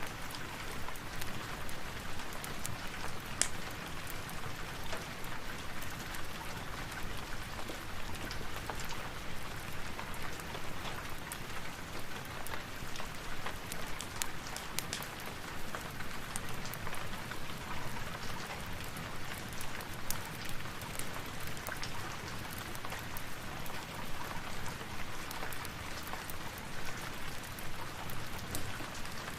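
Steady rain falling, with many scattered sharp ticks and clicks through it.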